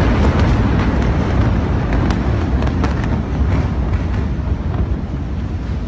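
Long rolling rumble after a large explosion, fading slowly, with scattered sharp cracks and pops.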